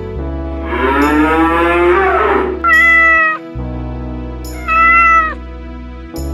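Domestic cat meowing twice, two short high cries about two seconds apart, after a longer wavering animal call at the start, over steady background music.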